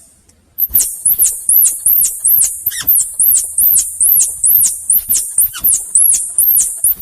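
A small animal calling in a fast, even series of very high-pitched squeaking chirps, about three a second. Each chirp rises and then falls in pitch.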